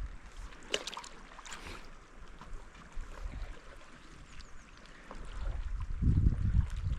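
Paddleboard paddle strokes splashing in river water, a few quick splashes in the first two seconds. From about five seconds in, wind buffets the microphone with a loud low rumble.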